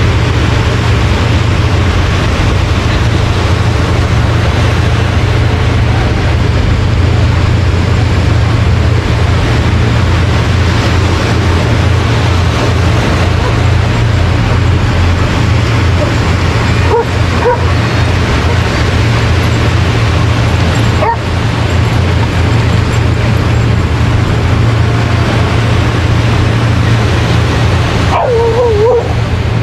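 A steady, loud rush of surf and wind on the microphone, with a dog's brief yips about halfway through and a wavering whine near the end.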